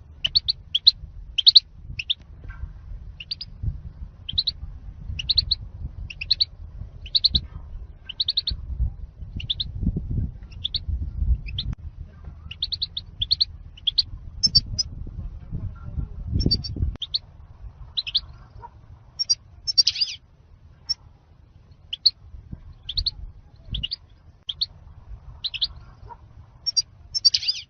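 European goldfinch singing: a steady run of short, high chirps, about one or two a second, over a low rumble.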